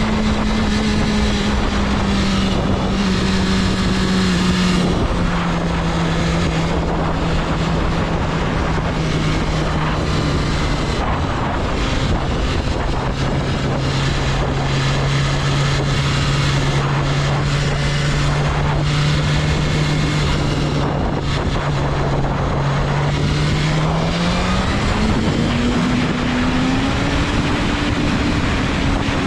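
BMW S1000RR's 999cc inline-four engine running on the road under a heavy rush of riding wind. Its note eases down in a couple of steps, holds steady at a cruise for a long stretch, then rises smoothly as the throttle is opened near the end.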